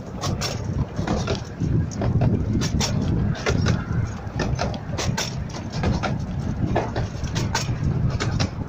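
Miniature steam railway carriage running along the track, heard from on board: a steady low rumble with frequent sharp clicks and rattles of the wheels over the rails.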